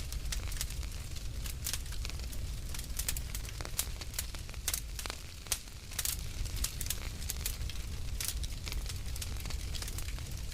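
Wood fire in a fireplace crackling: irregular sharp pops and snaps over a low steady rumble. About five seconds in there is a brief lull, broken by one sharp pop.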